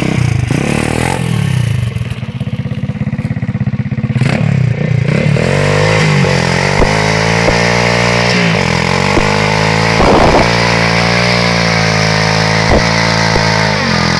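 X-motos XB33 140cc pit bike's single-cylinder four-stroke engine revving hard during a burnout, its revs climbing over the first few seconds and then held high with a few brief dips, over a steady hiss from the rear tyre spinning against the ground.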